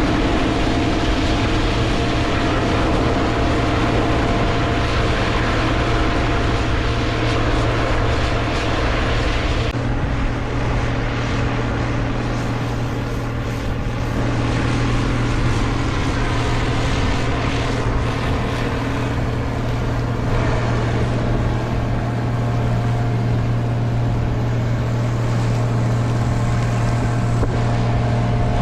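Heavy diesel harvest machinery running steadily under load, a constant low engine hum with mechanical clatter and rush over it; the higher hiss eases about ten seconds in.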